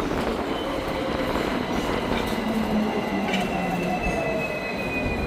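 Hong Kong double-decker tram running on its rails. A thin, high squeal sets in about two seconds in and slowly falls in pitch.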